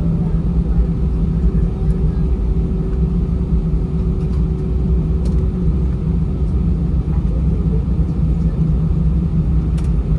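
Cabin noise of an Airbus A320 taxiing, its CFM56 engines running at taxi power: a steady low rumble and hum. A thin steady tone in the middle fades out about six seconds in.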